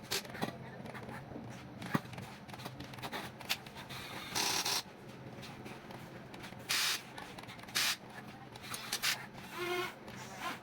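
Huina 1550 RC excavator working loose material: several short hissing, scraping bursts over a low steady hum from its motors.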